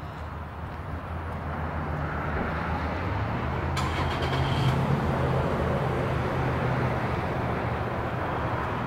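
Car cabin noise while driving: a steady hum of engine and tyres on the road that slowly grows louder.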